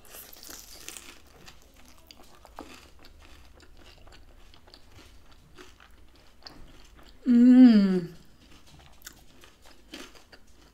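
A crunchy bite into a fried pizza-dough taco empanada, followed by close-up chewing with many small clicks. About seven seconds in comes one drawn-out hum that falls in pitch.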